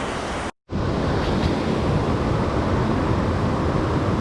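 Mountain stream water rushing steadily, with a short break about half a second in where the sound cuts out completely.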